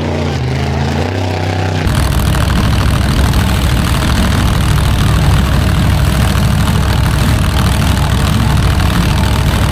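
Monster truck engine running loudly at idle. About two seconds in, the sound switches abruptly to a louder, rougher engine rumble close by.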